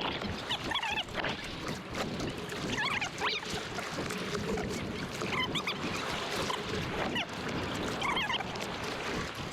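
Choppy ocean water washing and splashing steadily. Short, wavering high-pitched calls come every two or three seconds.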